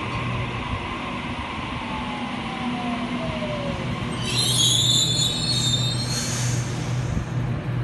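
Sydney Trains Series 1 Waratah electric train slowing into the platform. Its motor whine falls in pitch, then the brakes squeal high for about two seconds as it comes to a stop, followed by a short hiss, over a steady low rumble.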